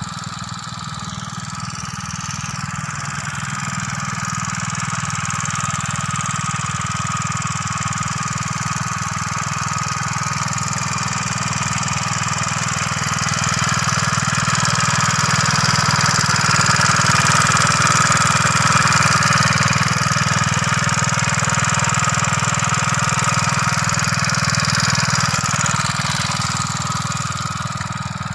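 Motorcycle engine running steadily under load while powering a water pump to irrigate a field, its level rising slowly toward the middle and easing off near the end.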